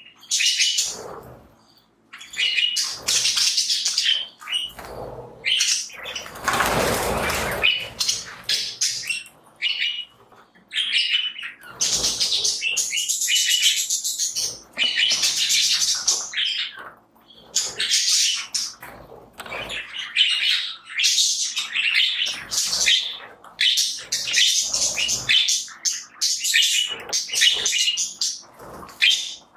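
A flock of budgies chirping and chattering continuously in quick, high-pitched calls. There is one brief, louder noisy burst about seven seconds in.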